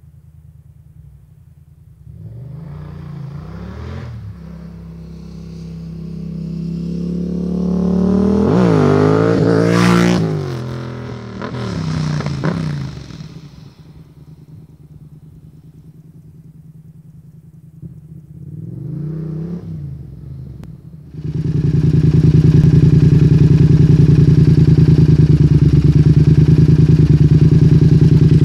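Yamaha MT-07's parallel-twin engine through a MIVV GP carbon exhaust, idling and then revved in a series of blips. The biggest rev rises and falls about eight to ten seconds in, with smaller ones around twelve and nineteen seconds. From about twenty-one seconds the engine runs loud and steady at a higher pitch.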